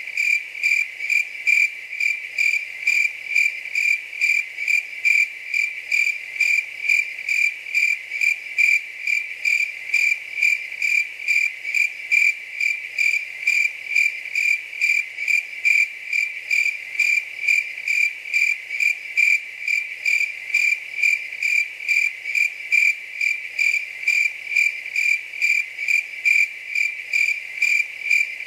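A cricket chirping steadily, a high, even chirp repeating about twice a second.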